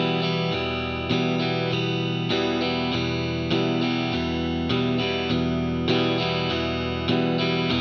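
Electric guitar strumming chords in a rhythm that mixes quarter-note and eighth-note strums, changing chord every second or so.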